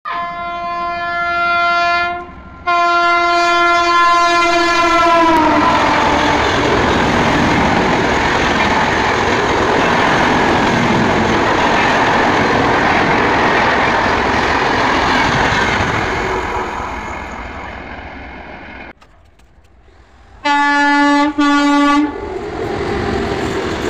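An Indian Railways locomotive sounds two long horn blasts, the pitch dropping as it passes at speed. The steady rumble and clatter of its coaches running through follows, fading away. Near the end another approaching electric locomotive gives two short horn blasts, and the rumble of its train begins.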